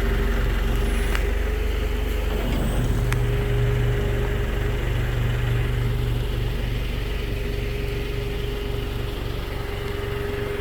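Telehandler's diesel engine running steadily under load while its boom raises a man on it. The engine note shifts about two and a half seconds in.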